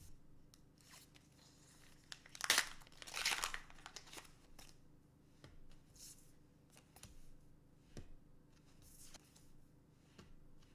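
Foil trading-card booster pack wrapper crinkling and tearing open, in two loud noisy rushes between two and four seconds in, with light clicks and rustles of handling around it.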